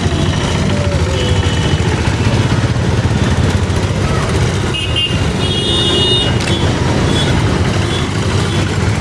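Steam locomotive running steadily with a heavy low rumble. Brief high-pitched squeals come about five and six seconds in.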